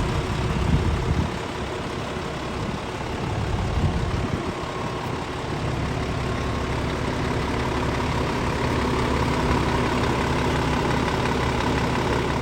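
Scania S500 truck's diesel engine idling steadily.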